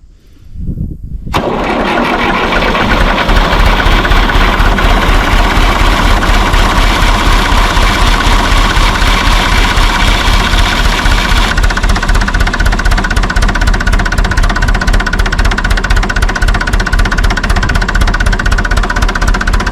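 1954 Fordson tractor engine catching about a second in and then running steadily with a fast, even knocking beat, on its first run after years of sitting unused. A little past halfway the sound loses some of its hiss.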